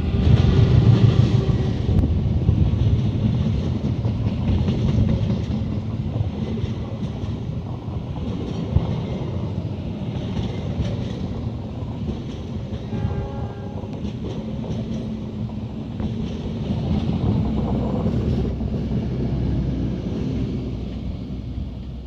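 Diesel-hauled train behind a KAI CC206 diesel-electric locomotive running with a steady heavy rumble and wheels on the rails, loudest in the first couple of seconds. A short tonal sound, which may be a distant horn, shows about 13 seconds in.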